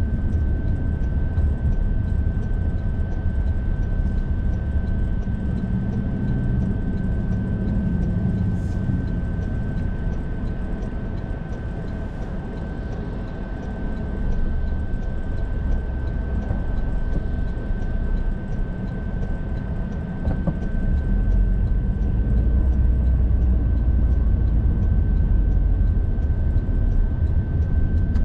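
Car driving at road speed: a steady low rumble of tyres and engine that swells and eases a little, with a constant high-pitched whine throughout.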